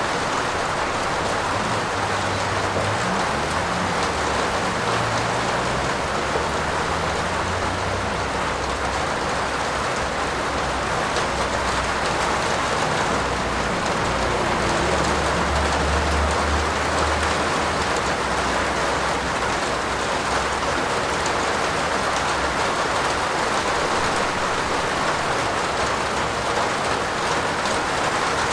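Heavy rain falling steadily in a continuous even hiss. Low rumbles come and go beneath it, the strongest swelling about halfway through.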